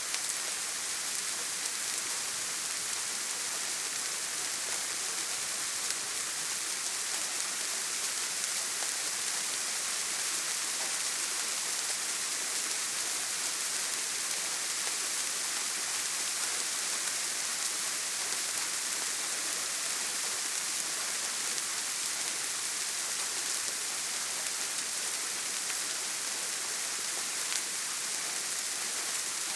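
Steady rain falling on a tin roof: an even, unbroken patter with no thunder.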